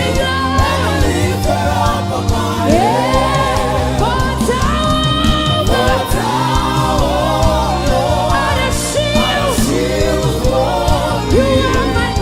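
Gospel worship song: a lead voice and choir singing over a steady instrumental backing.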